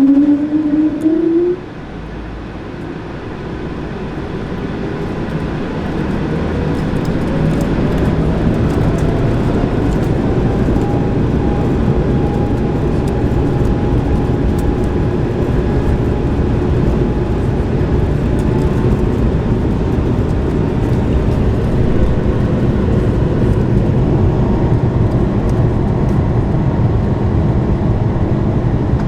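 Airbus A220's Pratt & Whitney geared turbofan engines spooling up for takeoff, heard from inside the cabin: a whine rises in pitch and the rumble builds over several seconds, then holds steady and loud through the takeoff roll. A loud rising whine in the first second and a half cuts off abruptly before the build-up.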